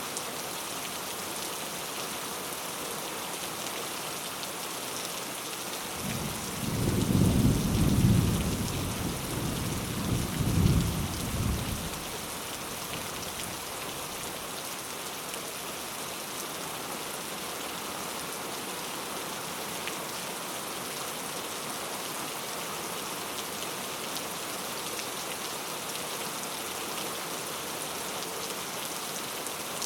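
Steady rain falling, with a roll of thunder about six seconds in that rumbles loudly for around six seconds, peaking twice before fading back into the rain.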